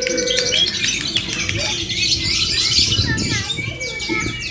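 Many lovebirds chattering and squawking at once: a dense run of quick, high, shrill chirps overlapping throughout, with a lower warbling trill at the very start.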